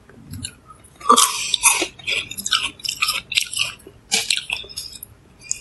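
Crisp chewing of a mouthful of raw fruit, close to the microphone: irregular crunchy bites and chews starting about a second in.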